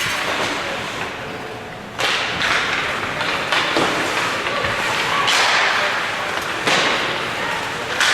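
Ice hockey play in an arena: a run of sharp thuds and scrapes from skates, sticks and puck on the ice, over a steady rink din.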